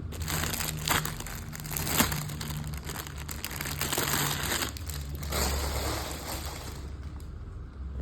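Plastic packaging crinkling and rustling as it is handled, with sharp crackles, stopping about seven seconds in; a low steady hum runs underneath.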